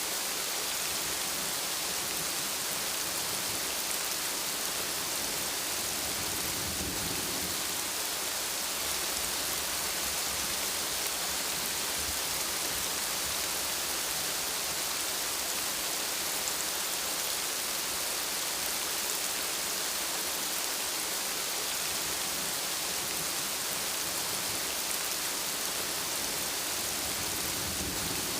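Steady, even rainfall: a dense hiss of rain on surfaces, with a faint low rumble swelling briefly about seven seconds in.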